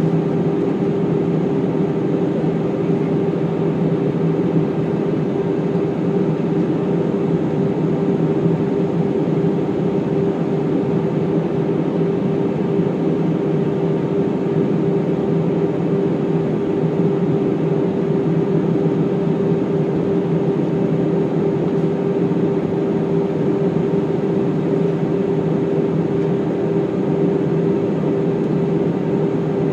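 Airbus A319 airliner in flight, a steady rumble of engines and rushing air with an even drone running through it, unchanging throughout.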